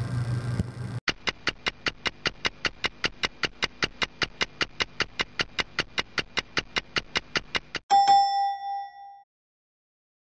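Quiz-style sound effect: rapid even ticking, about five or six ticks a second for nearly seven seconds, then a single bell ding that rings out and fades over about a second. A faint room hum comes before the ticking starts.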